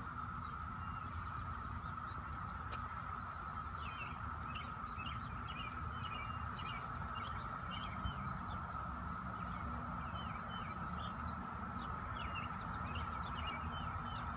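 Small birds chirping in short repeated calls from about four seconds in, over a steady high-pitched hum and a low rumble.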